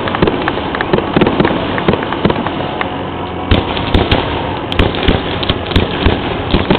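Fireworks finale: a dense, unbroken barrage of overlapping bangs and crackles.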